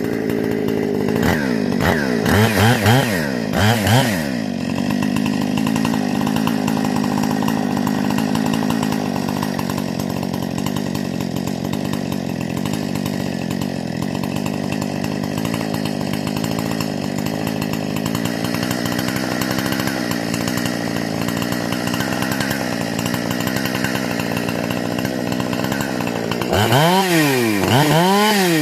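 Husqvarna 460 two-stroke chainsaw, its carburetor and muffler modified, blipped up and down a few times, then held at steady high revs through a long cut in wood, and blipped twice more near the end.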